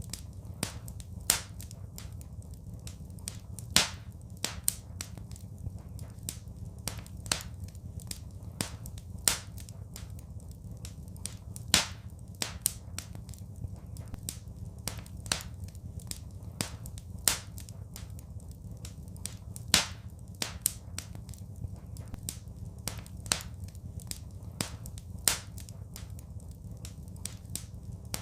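Wood fire in a fireplace crackling, with sharp irregular pops a few times a second over a low steady rumble; a few pops stand out much louder than the rest.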